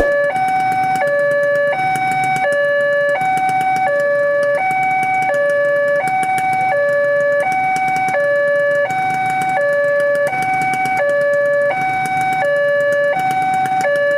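Railway level-crossing warning alarm sounding, a loud electronic two-tone signal switching evenly between a lower and a higher tone about every 0.7 seconds, warning that a train is approaching and the gates are down. A low rumble runs beneath it.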